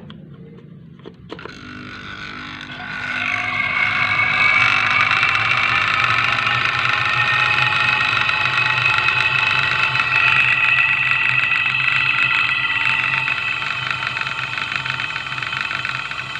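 An outdoor air-conditioner unit's pipework being flushed under pressure with R11 flushing solvent, a loud steady hiss and whistle over a low hum. It starts suddenly about a second in, and its whistling tones rise in pitch over the next few seconds before holding steady.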